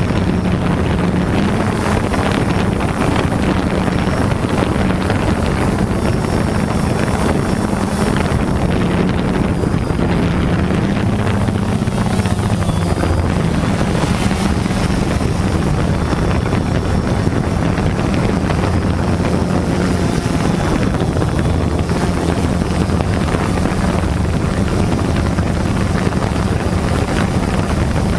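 Quadcopter drone's propellers whirring steadily, a hum that drifts slightly in pitch over a rushing hiss.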